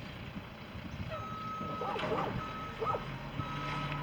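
Garbage truck's reversing alarm beeping about once a second, starting about a second in, over the low rumble of the truck.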